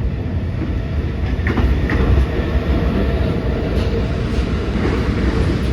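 R46 subway train running, a steady loud rumble with a few sharp clicks.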